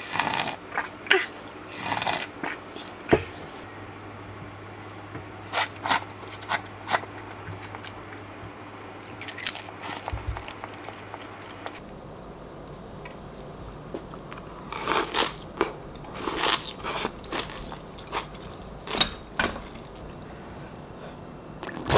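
Close-up eating sounds: crunchy bites and chewing, in irregular clusters of short crackly crunches with pauses between them.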